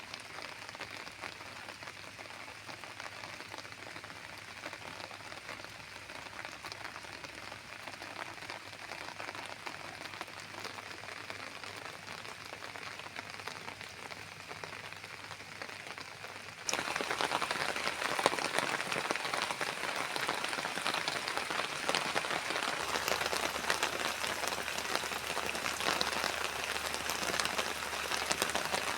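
Steady rain falling, a dense patter of drops. A little over halfway through it turns suddenly louder and heavier.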